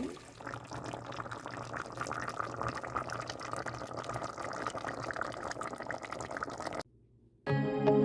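Liquid bubbling and crackling in a cooking pot just after food has been added. It stops abruptly about seven seconds in, and music starts half a second later.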